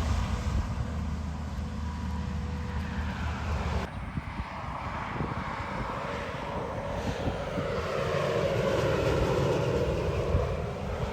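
Semi-trailer trucks passing on a highway: engine and tyre noise swells and fades as each goes by, with falling pitch as one passes near the end. The sound changes abruptly about four seconds in.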